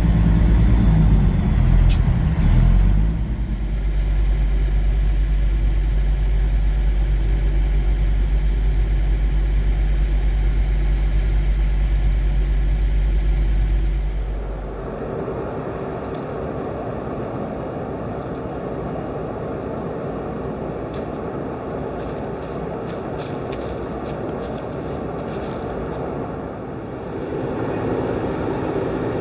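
Semi-truck diesel engine running steadily with a deep, even rumble, which cuts off suddenly about halfway through. It is followed by a steady rushing noise with a few faint clicks.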